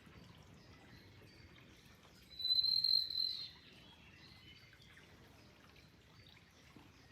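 Birds chirping over a faint, steady wash of flowing water. About two and a half seconds in, one bird gives a loud, high, steady note that lasts about a second.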